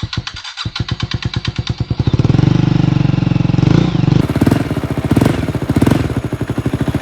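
KTM 250 motorcycle engine cold-starting at about −5 °C after 120 days unused: it fires about half a second in, picks up speed over the next two seconds, then runs with the revs rising and falling several times.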